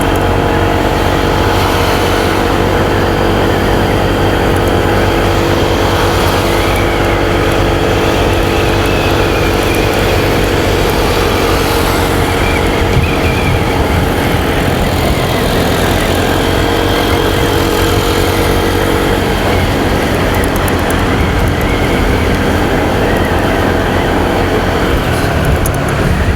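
Motorcycle engine running steadily on the move, mixed with wind rush and the noise of surrounding road traffic.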